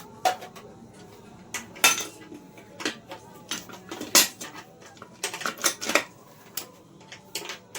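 Metal engine parts and hand tools clinking and knocking against one another during assembly of a Hero HF Deluxe motorcycle engine: sharp, irregular clinks, the loudest about two and four seconds in.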